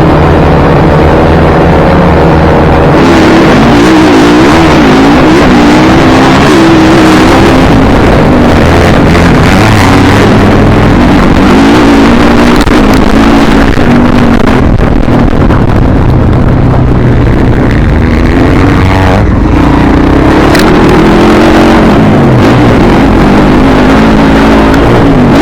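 Dirt bike engine revving up and down over and over as the bike is ridden, very loud and close, with a dense rushing noise over it.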